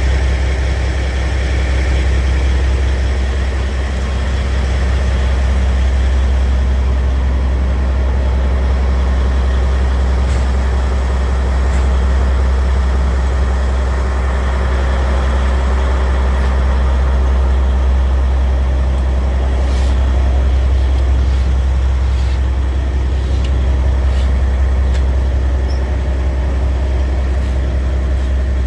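Scania R tractor unit's diesel engine idling steadily, a low even drone that holds at one level.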